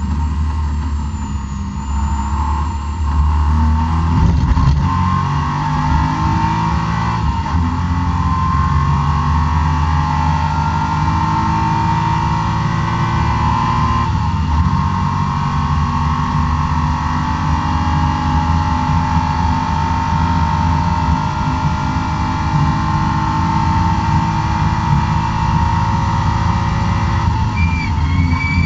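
BMW E36 M3 straight-six at full throttle, heard from inside the car, climbing in pitch through the gears with brief breaks at the upshifts, then one long steady pull. The engine is down on power, its torque falling off at 5800 rpm from a bad engine map, which a dyno at the track confirmed.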